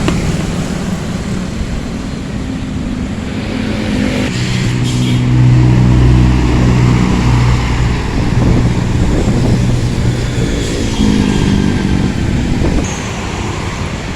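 A motor vehicle engine running with road noise. It grows louder about four seconds in and eases off again near the end.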